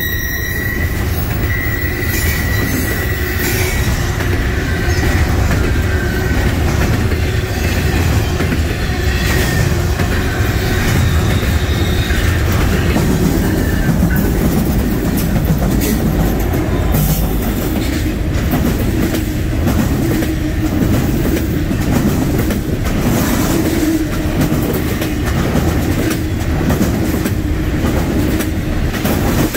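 Double-stack intermodal freight train passing close: a steady loud rumble of steel wheels on rail with a run of clicks. A faint steady wheel squeal runs throughout, and a higher squeal fades out in the first few seconds.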